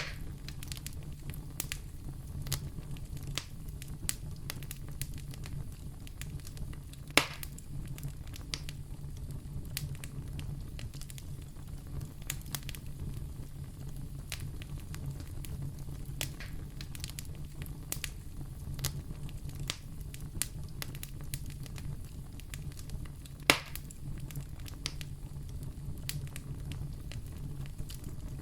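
Wood fire burning in a fireplace, crackling steadily with many small snaps over a low rumble. Two louder pops stand out, about seven seconds in and near the end.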